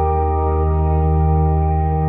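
Ambient meditation music: handpan notes ringing out over a steady low drone.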